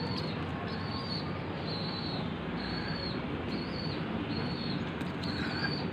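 Pigeon squab giving short, thin, high begging peeps about once a second, over a steady background hiss.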